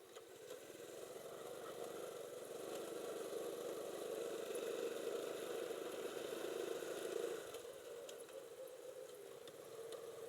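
Small motorcycle engine running at low speed, growing louder over several seconds and then easing off about seven seconds in, as the throttle is rolled back.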